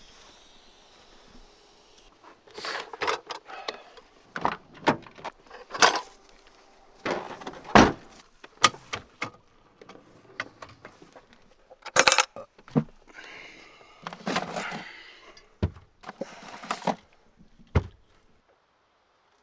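Irregular handling noise: a run of sharp knocks and clicks mixed with rustling, uneven in loudness, which stops about a second and a half before the end.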